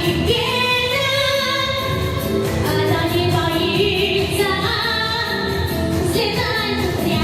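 A woman singing a slow song in Russian to a backing track.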